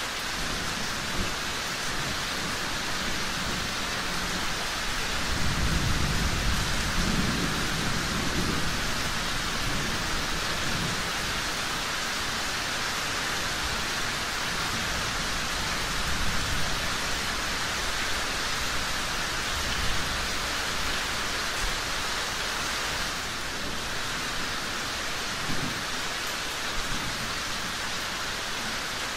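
Steady heavy rain, with a low rumble of distant thunder swelling about five seconds in and fading by about nine seconds.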